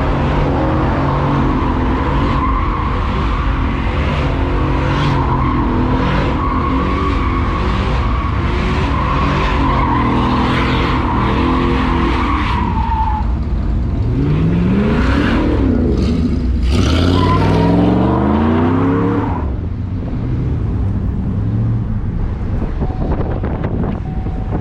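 Pickup truck doing a burnout: a steady tire squeal over the running engine for about the first half, then the engine revving up and back down twice.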